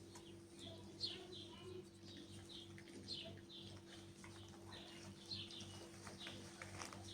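Small birds chirping: short, high chirps falling in pitch, repeated every half second or so, over a faint steady low hum.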